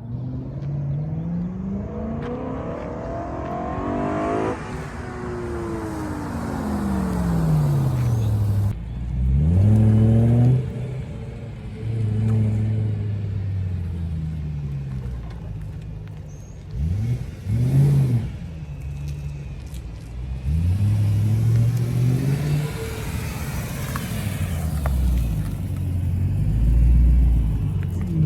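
BMW E93 M3's 4.0-litre V8 running through an aftermarket GRWA valved exhaust, revving up and falling back several times, with two quick sharp revs about two-thirds of the way in.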